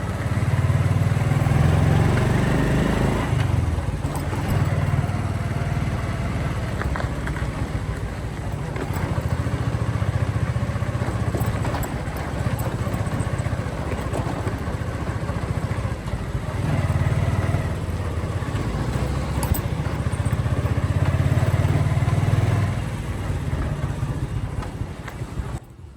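Motorcycle engine running under way, its low note swelling and easing off several times as it rides; it drops away just before the end.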